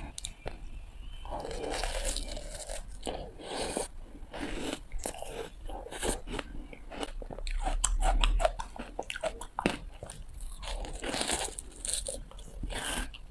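Ice bitten and crunched between teeth, close to the microphone: a run of sharp cracks and crunches, loudest about eight seconds in.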